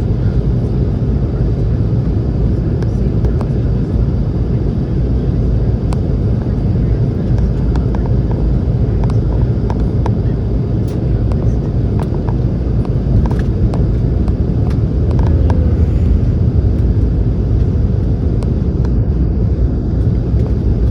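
Steady low cabin roar inside a Boeing 717 on approach, from its engines and the airflow over the fuselage. A few faint clicks sound over it.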